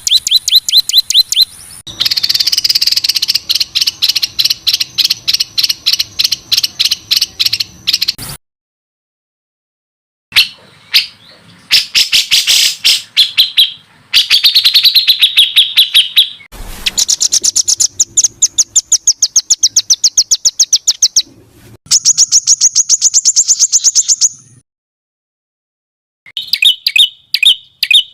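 Recorded songbird song used as a tutor track for competition birds: fast, tightly packed trains of harsh repeated notes, each burst lasting a few seconds, with two brief silent breaks between segments.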